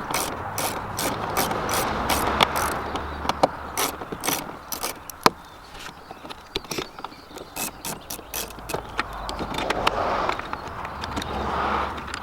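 Hand ratchet clicking as fasteners on a car door are worked, with a dense run of sharp clicks in the first half that grows sparser later, among handling and scraping noise.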